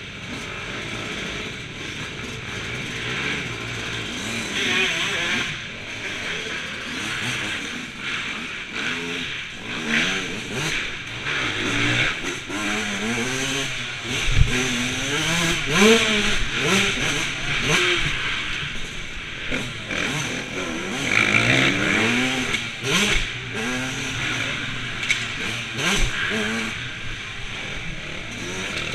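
Motocross bikes revving, engine pitch rising and falling again and again as they accelerate and back off around the track, with more than one engine heard at once. A short low knock stands out about halfway through.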